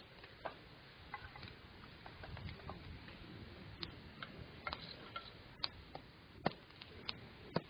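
Wood campfire crackling: irregular, sharp little pops and snaps, roughly two a second, over a faint low rumble.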